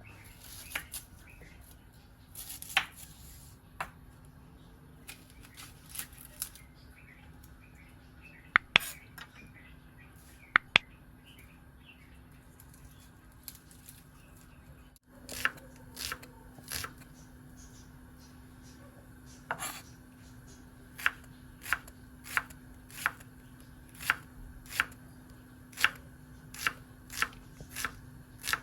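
Knife chopping on a cutting board: scattered single cuts at first, then a steady run of chops about one and a half a second near the end, over a steady low hum.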